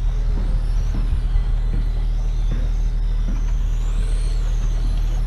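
Racing motorcycle engines running on track: a steady low drone with faint whines rising and falling in pitch as the bikes rev.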